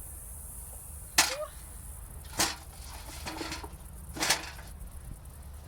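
Three sharp knocks, the first the loudest, spaced a second or two apart.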